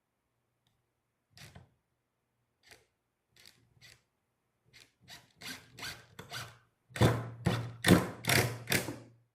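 Cedar wood being rubbed by hand in short back-and-forth strokes. The strokes are sparse at first, then come quicker and louder over the last two seconds or so.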